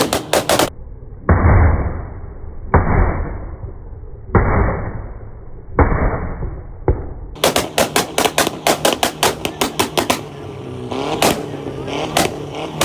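Car engines revved hard. Four separate rev blasts, each starting suddenly and fading off, sound muffled. From about halfway, a fast irregular string of sharp exhaust pops and crackles follows.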